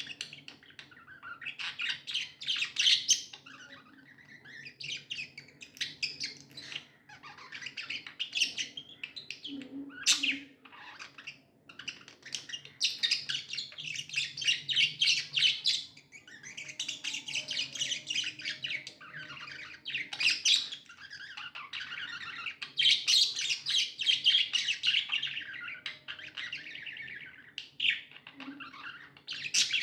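A group of budgerigars chirping and warbling in a dense, rapid chatter, with a couple of brief lulls.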